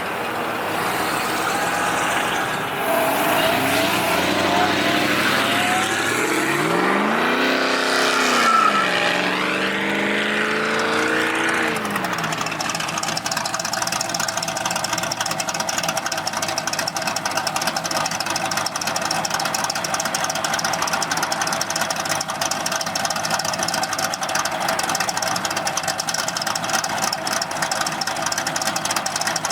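A car engine revs twice, its pitch rising and falling about a third of the way in. It then settles into a steady idle.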